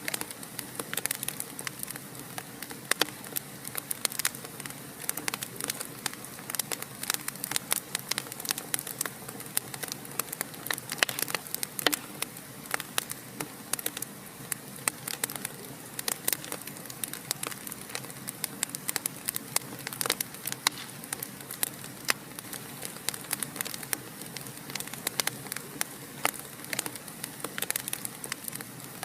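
Wood fire in a fireplace crackling and popping: frequent sharp irregular snaps over a steady soft hiss.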